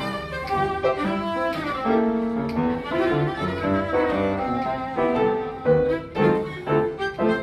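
Violin and piano playing together in a swing style. The violin holds the melodic lines over a steady run of piano notes and chords.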